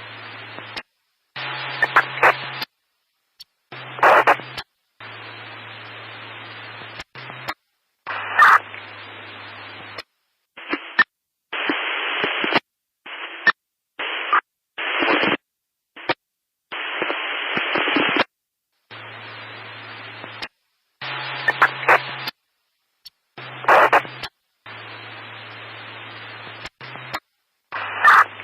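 Static noise, a band-limited hiss that cuts in and out abruptly in bursts lasting from under a second to a few seconds, with dead silence between them. Some bursts carry a low steady hum underneath and brief crackles.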